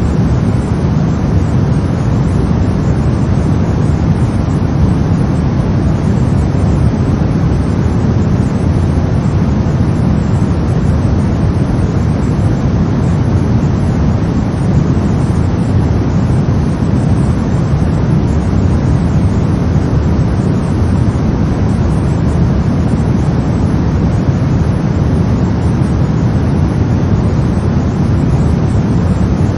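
Brown noise: a steady, deep rumbling hiss, strongest in the low end, that does not change.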